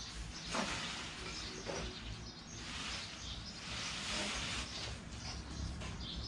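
Birds chirping over steady background noise and a low rumble.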